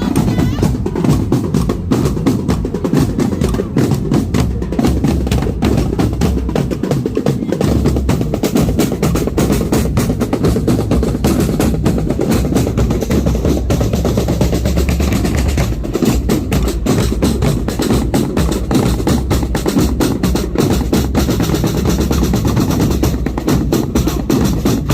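Drum corps drumline playing: snare drums in fast strokes and rolls over bass drum beats, continuous and loud.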